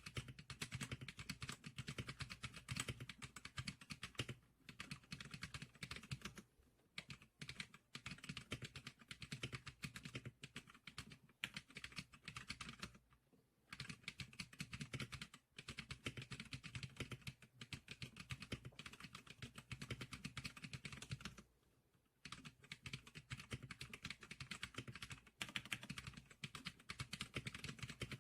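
Typing on a 지클릭커 SPK100 keyboard: quick runs of key clicks with a few brief pauses between them.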